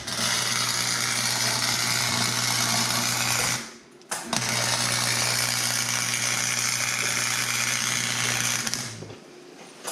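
Electric arc welding on the go-kart's exhaust pipe: two continuous weld runs with a steady crackling hiss over a low hum. The first run stops a little before the 4-second mark, and the second starts again shortly after and runs for about five seconds.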